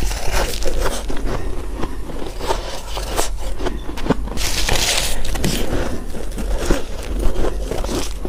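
Close-miked bites and chewing of crunchy freezer frost: a run of crackly crunches, with a longer hissing scrape about halfway through.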